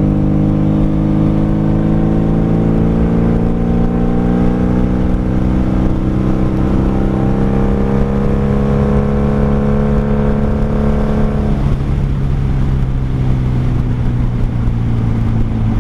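1995 Honda Magna VF750C's V4 engine running through straight pipes under way. Its pitch climbs slowly as the bike accelerates for about eleven seconds, then drops suddenly and runs on steady at a lower pitch.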